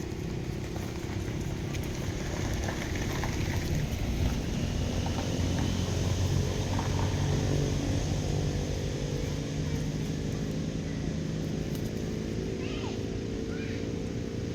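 A motor running steadily, growing louder a few seconds in and easing off again, with a few short high chirps near the end.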